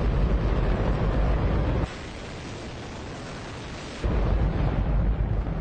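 A hydrogen-oxygen rocket engine firing: a loud, continuous roar with a deep rumble. In the middle the deep rumble drops away for about two seconds, leaving a thinner hiss, then returns at full strength.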